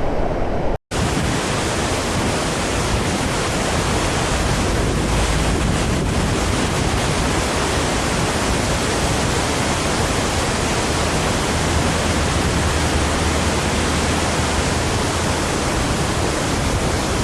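Large waterfall rushing: a loud, steady, even roar of falling water. It breaks off for an instant just under a second in, then runs on unchanged.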